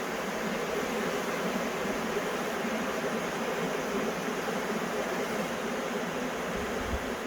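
Dense, steady buzzing of a honey bee swarm, many bees on the wing at once. The bees are fanning with their abdomens raised, typical of a swarm calling the rest into its new hive.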